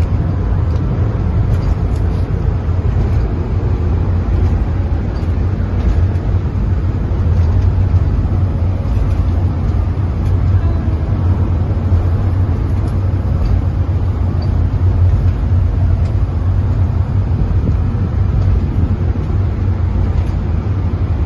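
Steady low rumble of a moving vehicle, running evenly without change.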